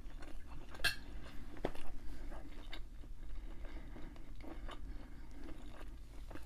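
A person chewing a mouthful of hibachi food close to the microphone, with irregular short mouth clicks, the sharpest about a second in.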